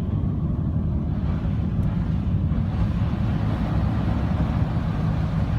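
Steady low rumble of a vehicle running, with a hiss that swells through the middle.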